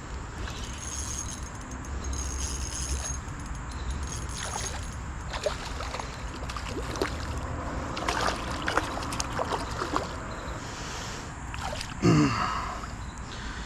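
Shallow creek water trickling and splashing, with a run of small sharp splashes through the middle as a hooked smallmouth bass is played in.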